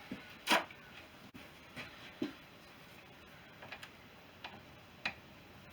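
Scattered clicks and light metallic knocks of hand tools being handled against the engine's crankcase bolts, about seven in all, with the sharpest knock about half a second in.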